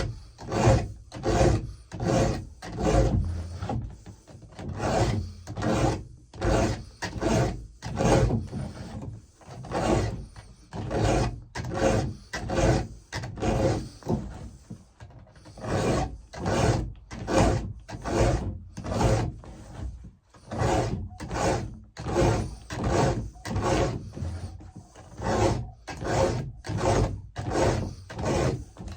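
A file being pushed across chainsaw chain cutter teeth by hand, steady rasping strokes about one and a half a second, broken by short pauses every few strokes as it moves on to the next tooth.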